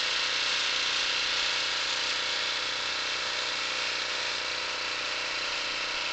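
An engine idling steadily under a constant hiss, holding one even pitch with no revving.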